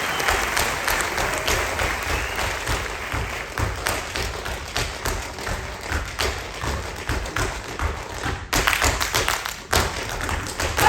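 Tap dance percussion on a stage: fast, irregular metal-tipped shoe taps over heavy stomps. A run of sharper strikes comes in near the end, closing on one loud hit.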